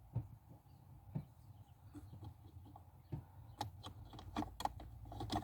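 Faint, scattered plastic clicks and knocks from handling an ELM327 OBD2 adapter while it is fitted to the car's diagnostic port, coming more often in the second half, over a low steady hum.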